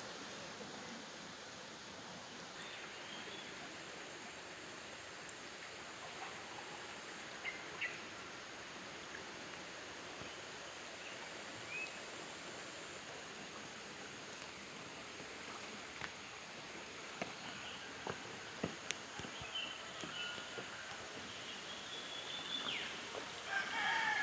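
Roosters crowing several times, the longest and loudest calls near the end, over a steady hiss of flowing water. A few sharp clicks in the second half.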